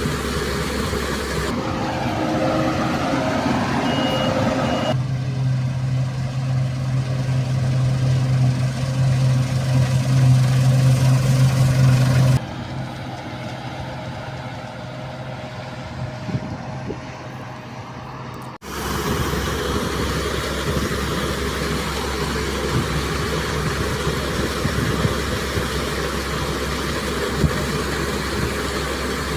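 Farm machinery engines running, a combine harvester or tractor, in several clips cut one after another. From about 5 to 12 seconds in there is a loud, steady low engine hum, and the sound changes abruptly at each cut.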